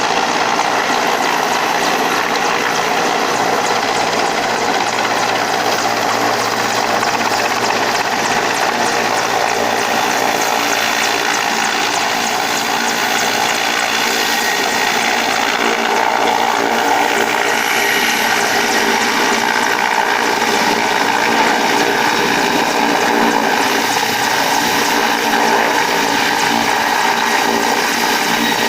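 Helicopter running close by: a loud, steady din of engine and rotor with several held tones above it.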